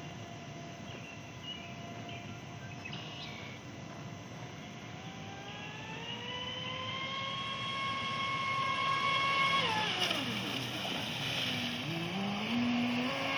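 Traxxas Spartan RC boat's electric motor whining as it runs on the water: the pitch climbs about five seconds in, holds high, drops steeply near ten seconds as the throttle comes off, then starts climbing again near the end.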